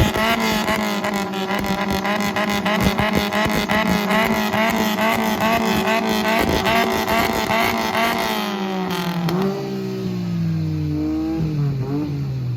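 Engine of a three-wheeled vehicle held at high revs through a loud exhaust, with rapid sharp crackles, for a loud-exhaust contest. About nine seconds in the revs drop and the note falls away, with a couple of short blips of the throttle near the end.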